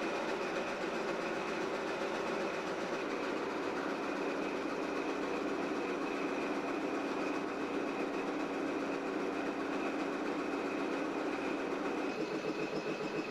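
A diesel locomotive running with its train of coal cars on the track. A steady tone joins about three seconds in and drops out near the end, where the sound turns into a quick pulsing.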